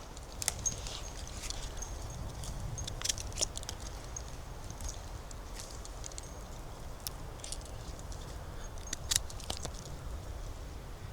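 Footsteps on a forest floor, crackling and snapping irregularly through leaf litter and small twigs.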